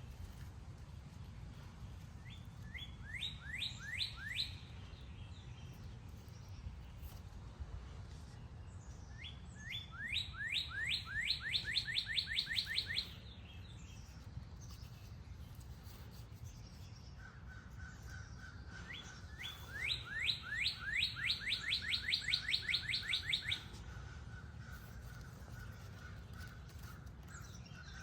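A songbird singing three bouts, each a quick run of falling whistled notes that speeds up as it goes. The bouts come near the start, in the middle and about three-quarters of the way through. A steady high tone comes in about two-thirds of the way through.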